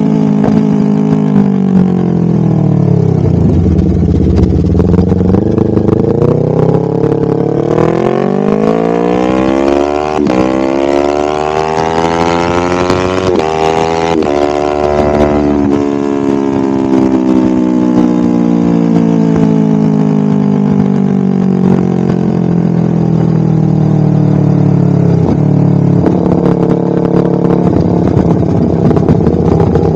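Honda CBR250RR parallel-twin engine through a DST full aftermarket exhaust system, ridden on the road. The note drops over the first few seconds, climbs steadily in pitch from about eight seconds in to a peak about six seconds later, falls back and runs low and steady, then rises again near the end.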